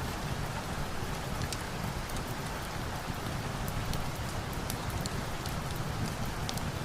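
Steady rain with a constant hiss and a low rumble, and scattered faint sharp ticks through it.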